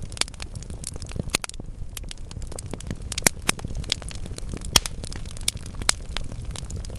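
Wood logs burning in a fireplace, crackling with many sharp pops over a low, steady noise of the flames. The loudest pops come about three seconds in and just before five seconds.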